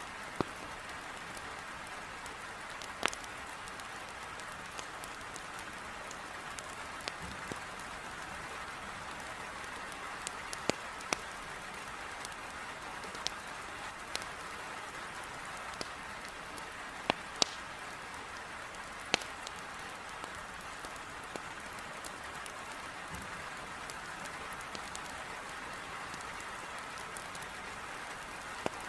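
Heavy rain hissing steadily against a window, with sharp crackles and pops of burning firewood in a fireplace scattered irregularly through it, a dozen or so, a few of them loud.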